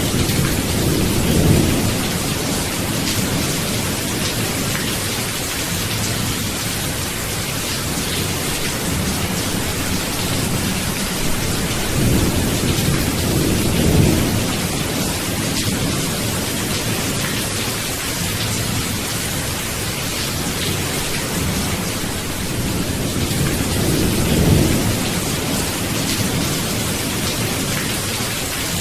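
Steady rain falling, with a low rumble of thunder swelling and fading three times, about a second in, near the middle, and again near the end.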